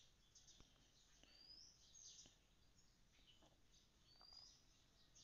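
Near silence, with faint short rising bird chirps about every three seconds and a few faint ticks.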